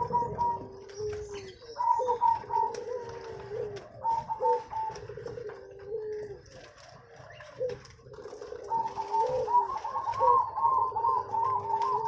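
Zebra doves (perkutut) cooing in repeated pitched phrases, with a brief lull partway through and a quicker run of notes near the end.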